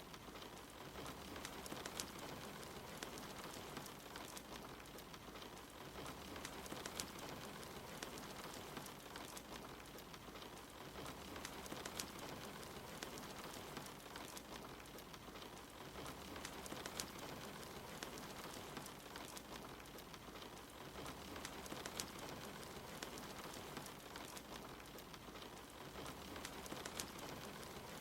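Steady rain mixed with a crackling wood fire, sharp pops scattered through the even hiss of the rain.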